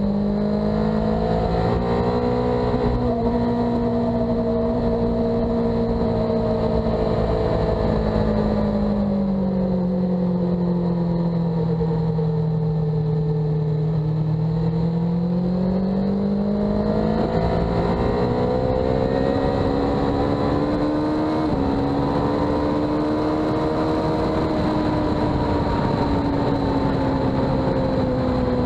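Sport bike engine heard onboard while lapping a race track: the engine note sinks slowly to a low point about halfway through, then climbs steadily again, with a couple of small jumps in pitch along the way, over steady wind rush.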